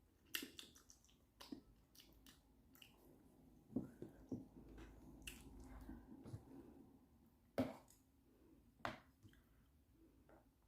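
Faint mouth sounds of a person eating Indomie mi goreng instant noodles: chewing with scattered wet smacks and clicks, a few of them sharper.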